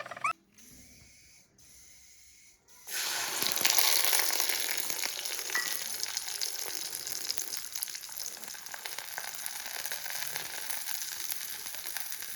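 Water running or splashing as a steady rush that starts about three seconds in.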